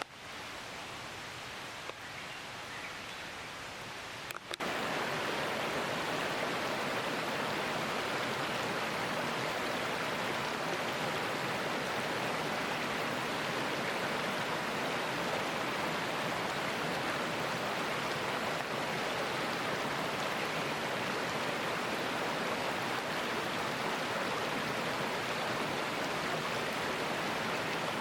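Mountain stream rushing steadily. The sound cuts abruptly from a softer hiss to a fuller, louder rush about four and a half seconds in.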